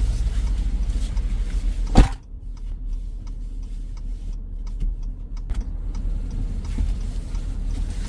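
Low car rumble with one sharp thump about two seconds in, after which everything is quieter; faint light ticks follow for a few seconds.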